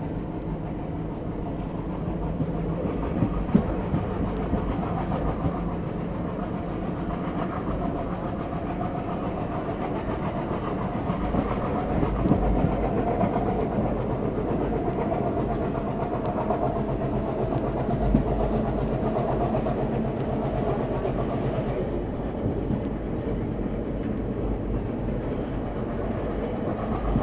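Passenger train hauled by twin ALCO diesel locomotives running along the line, heard from on board: a steady rumble of wheels on rails with occasional knocks and clicks over the rail joints.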